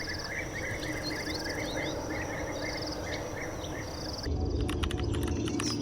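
Small birds chirping and twittering in a steady chorus, with short buzzy trills repeating, over a constant outdoor hiss. About four seconds in the sound changes and a quick run of sharp clicks comes in over a louder low rumble.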